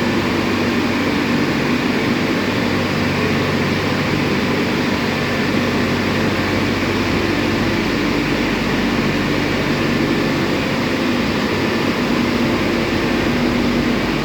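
Istobal M12+ rollover car wash machine running, a loud steady whirring noise with a low hum and no breaks.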